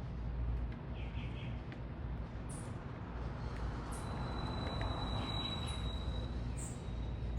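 City traffic ambience: a steady low rumble that swells midway as a vehicle passes, with a thin high whine over it. Small birds give short, very high chirps a few times.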